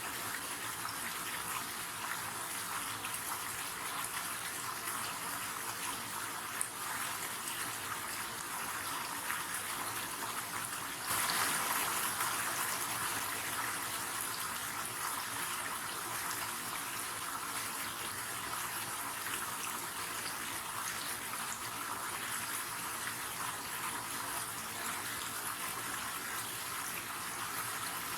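River water running steadily, an even rushing noise that swells louder about 11 seconds in and then settles back.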